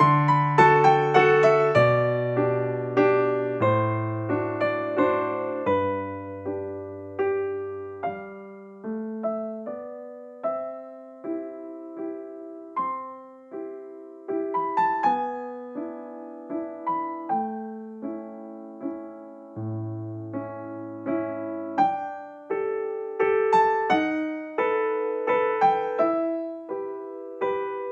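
Background music: gentle solo piano playing a slow melody over bass notes.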